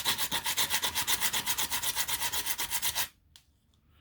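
Sandpaper rubbed quickly back and forth on a 3D-printed part, about seven or eight strokes a second, stopping about three seconds in. It is smoothing the part down, cutting the material away fast.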